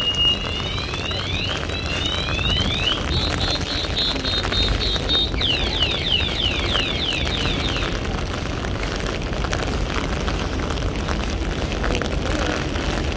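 Car alarm sounding in cycles of high electronic tones: two alternating notes, then swooping whoops, then a fast pulsing tone, then rapid falling sweeps, stopping about eight seconds in. Steady heavy rain and traffic noise run underneath.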